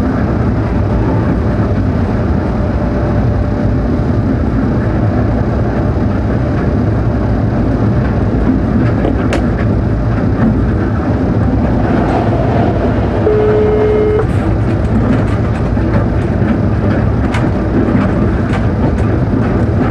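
Cab of a ČD class 363 electric locomotive on the move: a steady low rumble of wheels on rail. From about halfway a passenger train passes on the next track, with a run of sharp clicks, and a brief steady tone sounds a little after the train appears.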